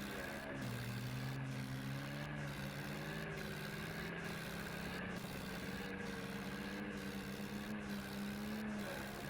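Swaraj 855 tractor's diesel engine running steadily, its note dropping to a lower pitch about half a second in.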